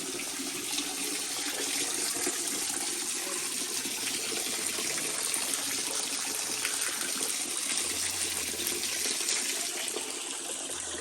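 Running water rushing steadily and evenly, with no break or change in level.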